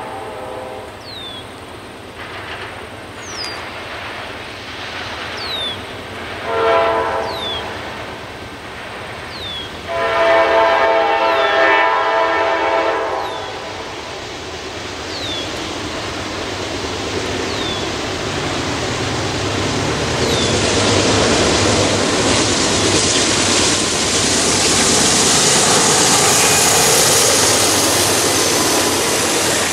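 Approaching diesel freight train sounding its horn: a blast ending just after the start, a short one about 7 s in and a long one about 10 s in. The train's rumble then grows steadily as the Norfolk Southern locomotive comes close and passes near the end, with wheel and rail noise. Birds chirp faintly.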